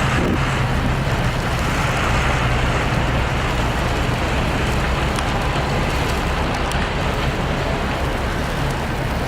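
Steady street traffic noise with the low hum of a running vehicle engine.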